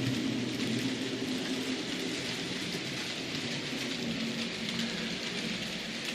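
N gauge model train running on the layout's track: a steady rattling hiss of wheels on rail with a low motor hum that weakens after about two seconds.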